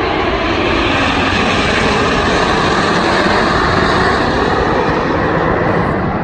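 Canadair CT-114 Tutor jet trainers of the Snowbirds flying past, a loud jet roar that builds to a peak about three to four seconds in and then eases off.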